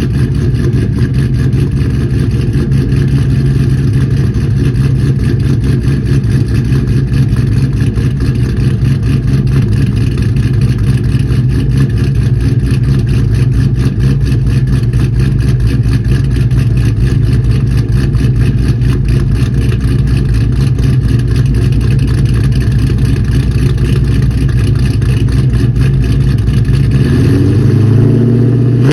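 LS1 5.7-litre V8 with a BTR Truck Norris camshaft idling through Spintech 6000 mufflers, a loud, steady, choppy idle; near the end the throttle is blipped and the revs rise and fall back.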